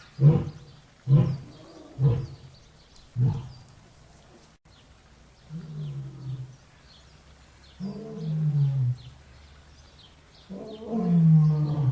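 Lion vocalizing: four short, grunting calls about a second apart, then after a pause three longer calls that drop in pitch, the last the loudest.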